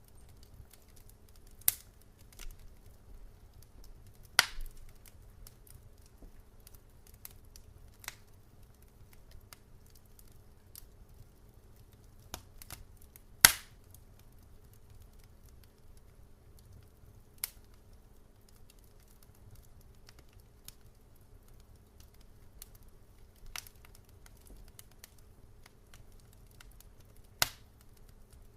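Wood fire crackling in a fireplace: scattered sharp pops and snaps every few seconds, the loudest about halfway through, over a low steady rumble.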